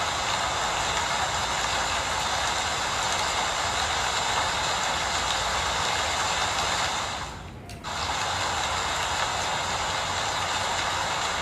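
Steady rain, an even hiss with no change in strength, except for a sudden dip of under a second about seven seconds in.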